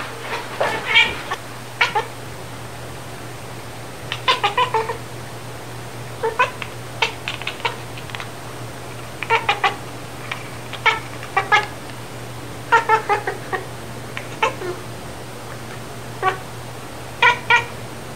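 Domestic cat giving short, high calls in quick clusters of two to six, with pauses between clusters, over a steady low hum.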